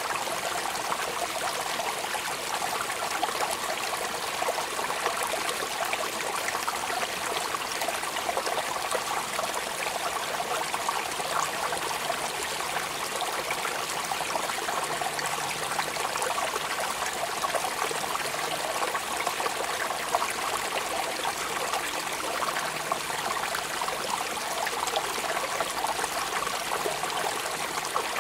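Steady rain falling, a dense, even hiss of countless drops with no change in strength.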